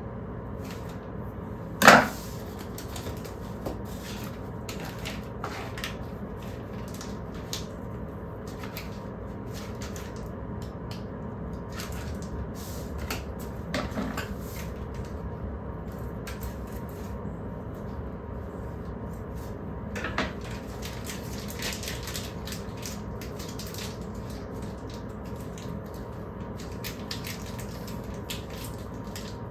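Kitchen handling sounds: a sharp knock about two seconds in, like a kitchen cabinet shutting, then a couple of softer knocks and scattered light clicks over a steady low hum.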